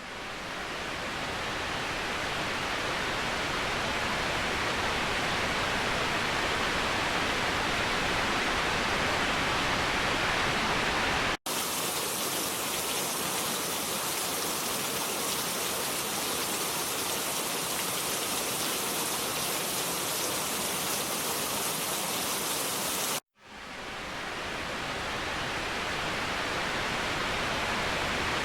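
Waterfall rushing steadily. It cuts out for an instant twice, about a third and about four-fifths of the way through, the second time fading back in. Between the two cuts the rush is hissier, with less low rumble.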